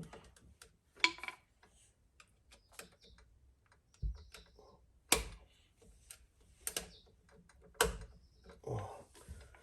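Irregular clicks and sharp taps of hand tools and stiff wire being worked at an electrical outlet while a wire is secured to its terminal, with a few louder snaps about a second in and again in the second half.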